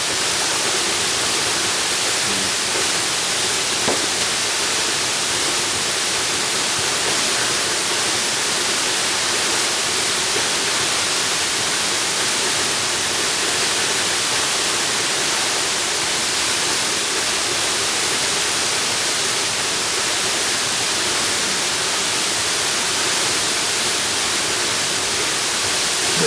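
Jungle waterfall pouring steadily: a dense, even, hissy rush of falling water that holds unchanged throughout.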